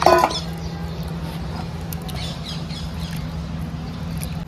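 A short, loud squawk right at the start, then several quick, high, falling bird chirps about two seconds in, over a steady low hum.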